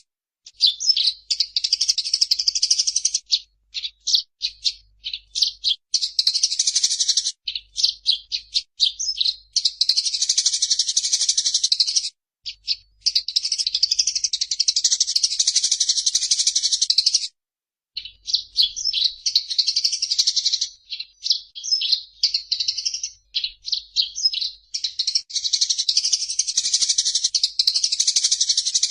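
Eurasian tree sparrow (burung gereja) giving its agitated fighting chatter: fast, unbroken strings of high chirps in long rolling runs, with a few short breaks.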